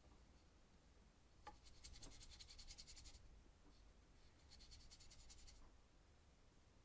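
Faint scratchy brushing of a paintbrush working oil paint on a small linen panel: two quick scrubbing passes, each about a second and a half long.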